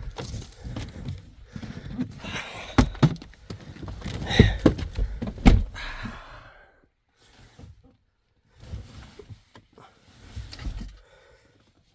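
Several thuds and knocks, the loudest about three, four and a half and five and a half seconds in, then only faint scattered sounds.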